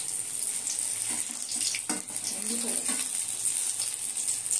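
Eggplant pieces frying in hot oil in a steel kadai: a steady high sizzle, with a few knocks and scrapes of a metal spatula against the pan as pieces are lifted out.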